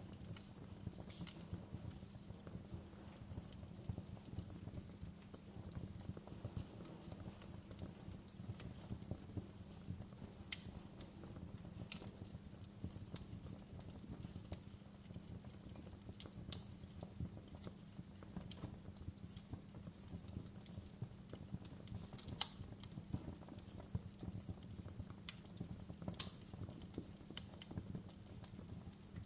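Wood fire crackling in a fireplace: a steady low rumble with scattered sharp pops and snaps of burning logs, and two louder pops near the end.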